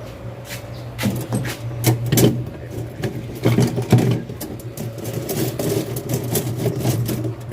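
Hands working on refrigerator evaporator tubing and fittings: a run of irregular clicks, knocks and light rattles over a steady low hum.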